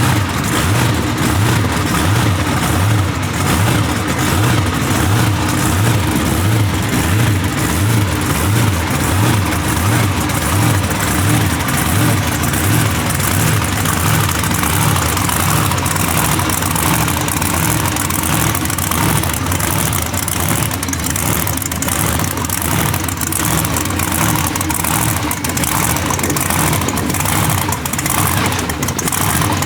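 A vehicle engine running steadily at a low, even speed, its low drone throbbing in a regular rhythm.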